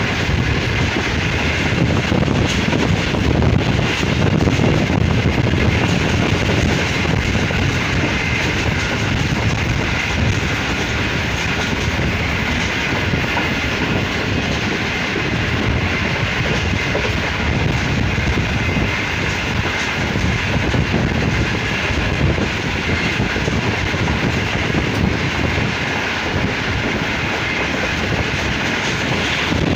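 Passenger train running at steady speed, heard from the open side of a moving coach: a continuous rumble of wheels on the rails with the clickety-clack of rail joints and rushing air.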